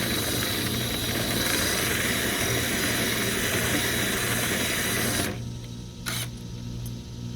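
Drill spinning a rotary dryer-vent cleaning brush inside the vent duct, a steady whirring that stops abruptly about five seconds in, followed by a low hum and a single click.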